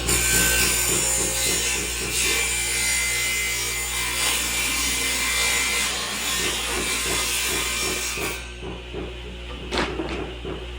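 Saw cutting through wood for about eight seconds, then stopping abruptly, over background music with a steady beat. A short sharp knock follows near the end.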